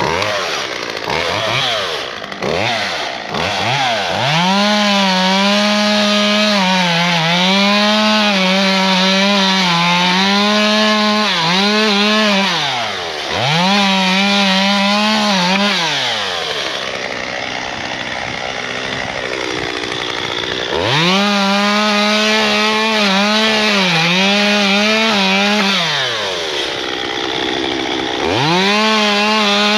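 Gasoline chainsaw running at high revs, its pitch wavering and sagging under load as it cuts wood. It comes in suddenly with a few throttle blips and falls back to a lower idle twice between cuts.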